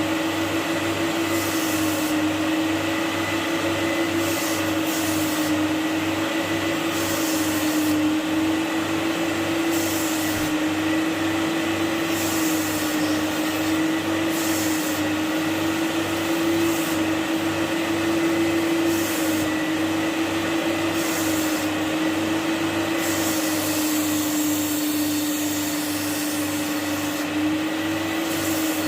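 Carpet-cleaning extraction machine's vacuum motor running steadily with a slightly wavering hum, the high hiss coming and going every second or two as the upholstery is cleaned.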